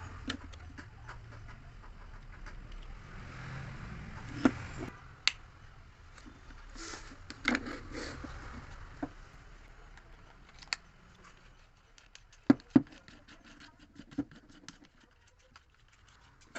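Handling noise from unboxing a small cordless screwdriver: rustling with scattered clicks and taps. There are a couple of sharp knocks in quick succession about three quarters of the way through.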